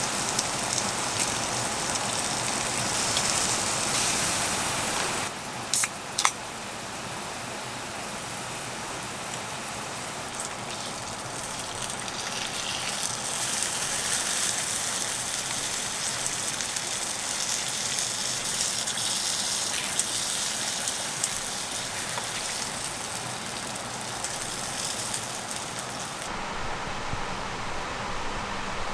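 Steady hiss of rain falling, with two short sharp clicks about six seconds in.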